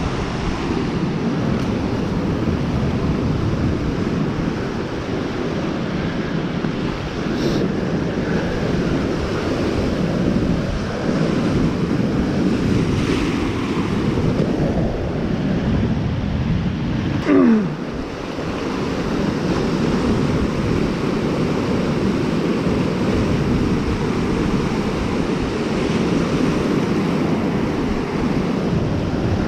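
Steady rush of waves on a Lake Superior shore, mixed with wind on the microphone. About 17 seconds in comes a single brief falling whistle-like glide.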